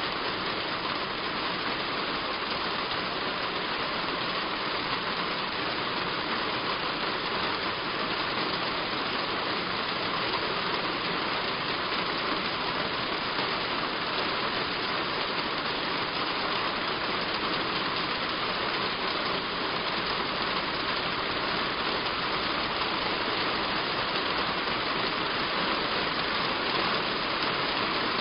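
Heavy rain falling steadily on a roof, a constant even hiss of drops.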